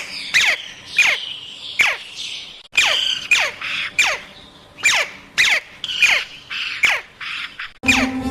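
Parrot squawking over and over, about two harsh calls a second, each falling sharply in pitch. Music comes in near the end.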